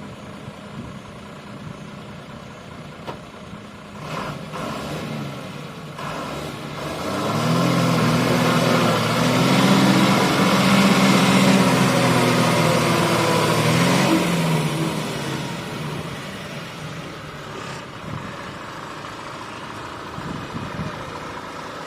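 Heavy vehicle's diesel engine running, revved up about seven seconds in and held high for several seconds, then easing back down about fourteen seconds in.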